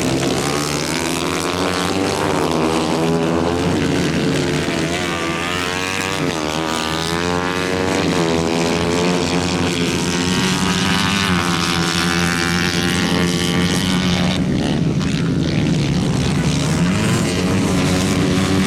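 125 cc engine running steadily, its speed wavering up and down slightly.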